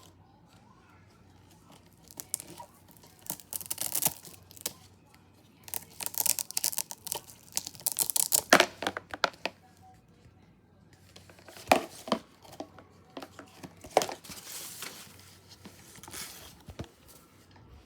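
Irregular bursts of rustling and crinkling, with a few sharp knocks, as things are handled and moved about.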